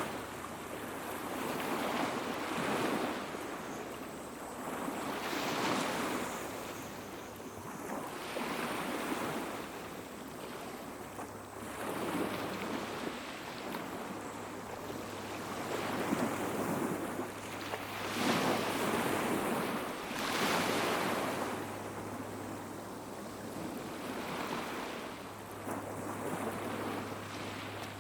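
Small sea waves washing onto the beach, each surge of surf swelling and falling back every two to three seconds.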